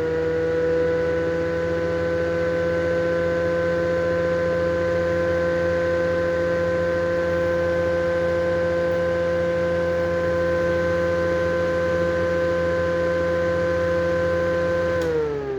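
Clipsal Airflow exhaust fan running at speed with a Mistral cover fitted: a steady whining tone over a low motor hum. Near the end the pitch starts to fall as the fan slows down.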